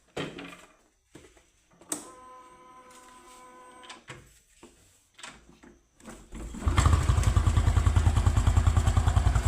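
A Honda Pop 110's single-cylinder four-stroke engine starts about six and a half seconds in and idles with a loud, fast, even exhaust pulse through a homemade can-built exhaust meant to make it pop and crackle. Before it, a few clicks and a steady hum lasting about two seconds.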